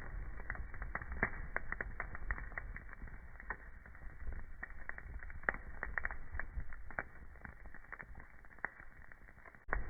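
Wood fire crackling in a fireplace: irregular sharp pops and snaps, several a second, over a steady low background of burning.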